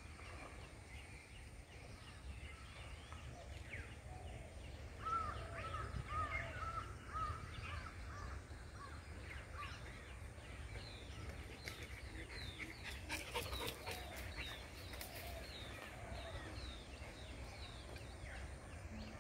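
Wild birds calling. A run of repeated short arched notes comes about five seconds in, and a series of quick high falling chirps follows later, over a steady low rumble.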